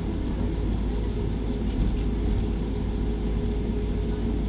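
Docklands Light Railway train running, heard from inside the front of the car: a steady low rumble with a constant hum, and a few faint light ticks about two seconds in.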